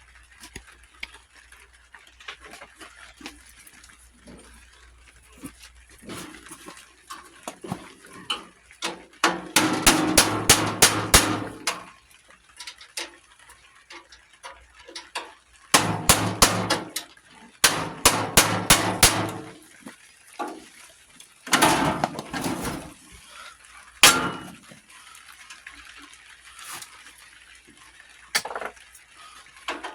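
Bursts of rapid metal-on-metal banging on an old tractor being taken apart for parts, in several runs of one to two seconds with single knocks between them.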